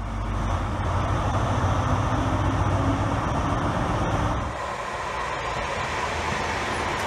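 A Class 43 HST power car's diesel engine running steadily with a low hum. About four and a half seconds in this gives way to the steady rushing noise of a West Midlands Railway electric multiple unit running through a station.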